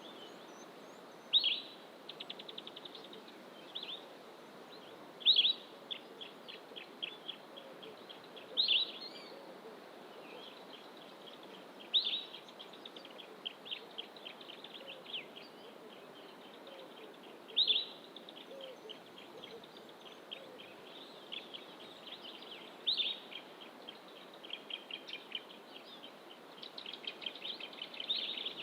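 A songbird singing in dense bush. Each phrase is a loud, high note followed by a fast run of short rattling notes, repeated every few seconds, with a steady low background rush beneath.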